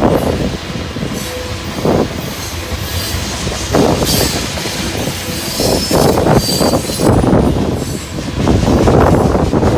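Freight train rolling past, its steel wheels running on the rails with some squeal.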